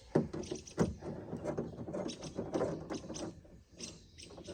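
Knocks, clicks and rattling of tools and metal and plastic parts being handled inside a car door, with a couple of sharp knocks at the start and a busy stretch of small clicks and scraping after.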